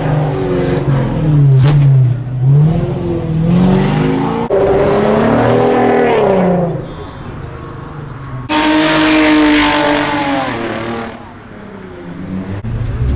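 Car engines revving again and again, their pitch climbing and falling. About eight and a half seconds in, a louder car comes in with a hard rush of noise, which fades away a couple of seconds later.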